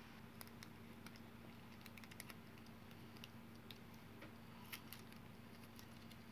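Faint, irregular small clicks and ticks of electrical tape being handled and wrapped around a freshly soldered grinder wire, over a steady low hum.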